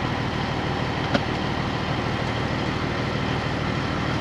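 Caterpillar 3406B diesel of a Peterbilt 362 cabover idling steadily as it warms up, with a single sharp click about a second in.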